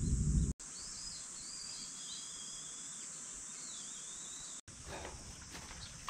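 Outdoor countryside ambience: a bird singing short whistled, gliding phrases over a steady high insect buzz. A louder low sound in the first half second cuts off abruptly, and a few faint taps come near the end.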